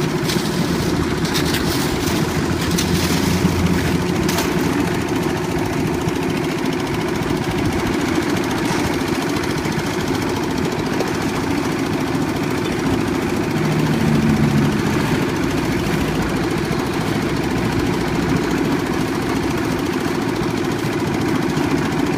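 Old diesel engine of a concrete mixer running steadily, with a few sharp knocks in the first seconds and a brief change in its tone about two-thirds of the way in.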